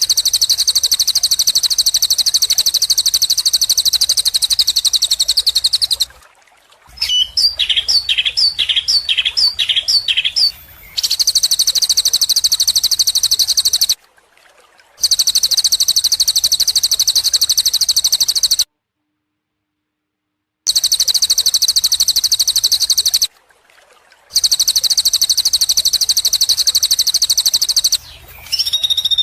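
Recorded songbird song spliced together: long stretches of a fast, high-pitched trill, broken by several sudden silent gaps where clips are joined. Between about 7 and 10 seconds a different bird repeats a short falling note about twice a second, and near the end another whistled call begins.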